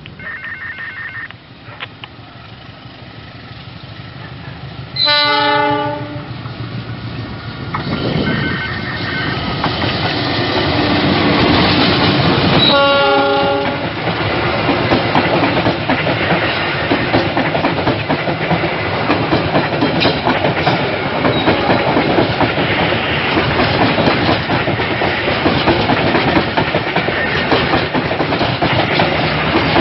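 Diesel-hauled passenger train passing close by: the locomotive horn sounds briefly about five seconds in and again about thirteen seconds in. From then on the rumble and clatter of the coaches' wheels on the rails grows louder and carries on.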